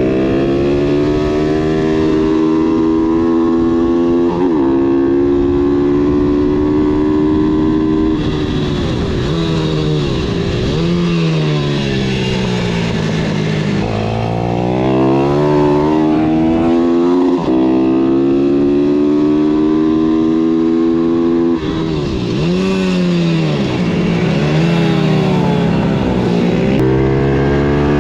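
Pitbike engine running hard on a kart track, held at high revs along the straights. Its pitch drops as the throttle closes into corners and climbs again as it pulls out, twice in a long sweep.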